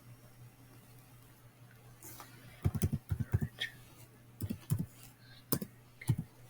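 Computer keyboard typing in several short bursts of quick taps starting about two seconds in, over a faint steady low hum.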